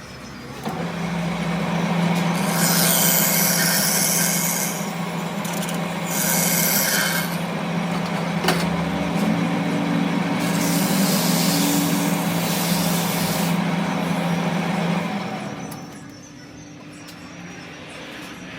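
A machine running with a steady hum at one pitch, overlaid by three bursts of hissing, and stopping about three seconds before the end.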